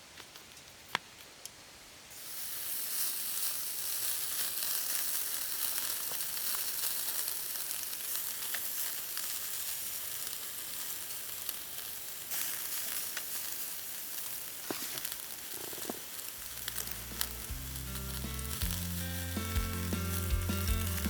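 Food sizzling in a hot pan over a campfire: the sizzle starts abruptly about two seconds in, after a few clicks, and keeps going with small crackles. Background music with a bass line comes in near the end.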